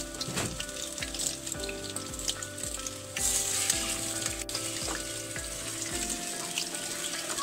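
Chicken pieces frying in hot oil in a wok: a steady sizzle, louder from about three seconds in as the pieces are moved with tongs.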